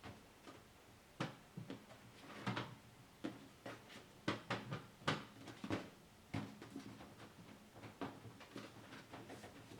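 Irregular light knocks and clicks of containers and other items being handled and set down while a fridge is sorted, many small strikes, the busiest about halfway through.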